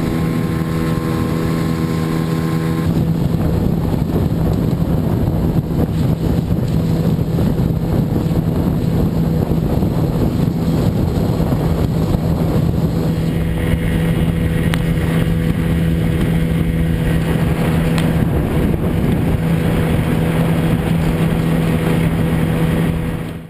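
Boat's outboard motor running at a steady speed as the boat moves through the water, with wind and water rushing.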